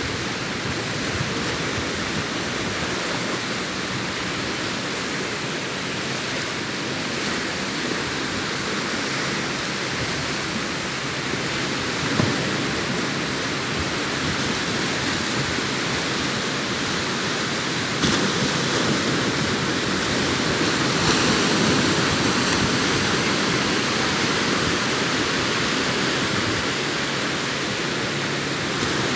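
Sea waves breaking and washing on the shore: a steady rushing surf that swells briefly now and then and grows louder about two thirds of the way through.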